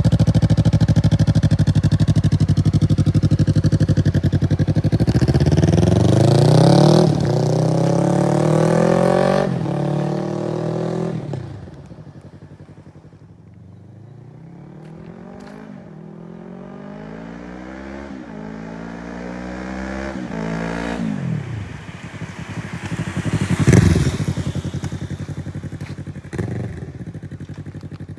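Yamaha YZF-R3's parallel-twin engine through an M4 carbon slip-on exhaust, accelerating through the gears: the pitch climbs and drops at each upshift as the sound fades away, then climbs again through more shifts and peaks loudly a few seconds before the end.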